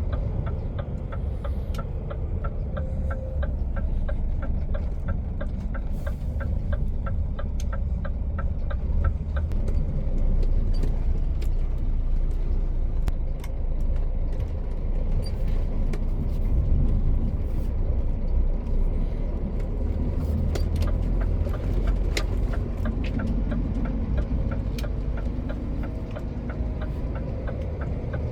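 Heavy truck heard from the cab: a steady engine and road rumble. Over it, a regular ticking of about three clicks a second, typical of a turn-signal relay, runs for the first nine seconds or so and comes back about twenty seconds in. Scattered sharp rattles fall between the two spells of ticking.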